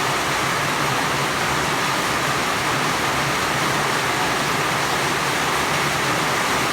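Steady, dense rush of water, an even hiss with no breaks.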